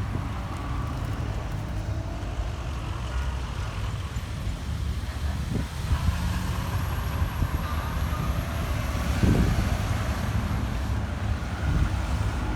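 Car engine running with a steady low rumble, louder for a moment about nine seconds in.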